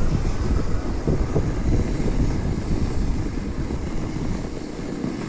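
Wind buffeting the microphone during a ride on an electric bicycle over a snowmobile track: a steady low rumble that eases slightly toward the end.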